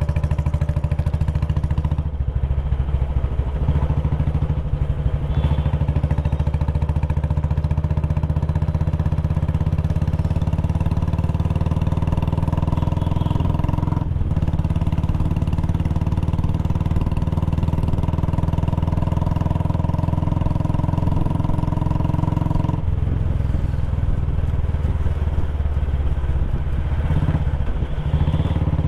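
Royal Enfield Bullet Classic 350's single-cylinder engine and exhaust running steadily under way, heard from onboard, its note shifting a few times.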